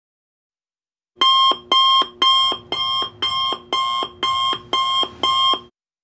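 Alarm clock ringing in nine short, even bursts of about two a second, starting about a second in and stopping near the end.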